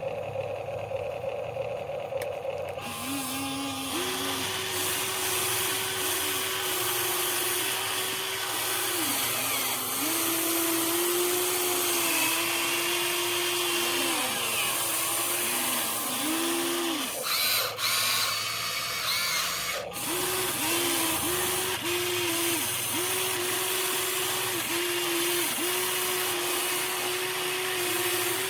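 Small electric motors and gearboxes of a Huina 1593 RC excavator whining, starting about three seconds in, the pitch stepping up and down as its functions are worked on and off.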